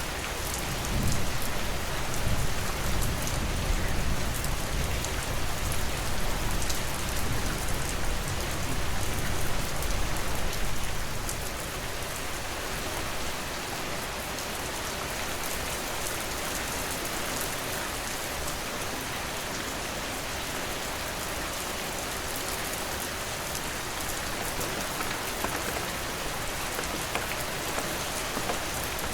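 Steady rain falling and pattering on surfaces. A deep low rumble sits under it for the first ten seconds or so, then fades out.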